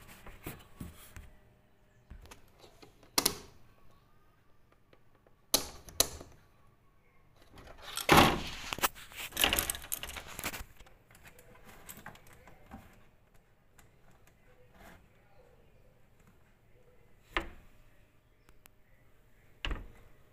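Irregular clicks and knocks of hard objects being handled, with a louder clattering stretch about eight seconds in and single sharp knocks scattered before and after.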